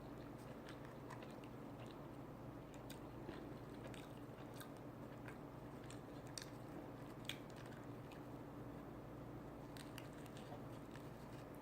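A person chewing food with the mouth close to the microphone, faint with scattered short wet clicks, over a low steady hum.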